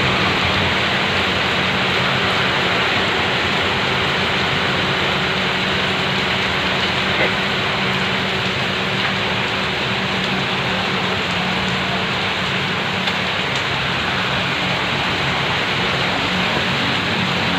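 Heavy rain falling steadily, with a faint low steady hum underneath.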